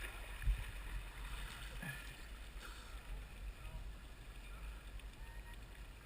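Faint flowing river water with a steady low rumble on the mic while a raft drifts through calm water; a single knock about half a second in.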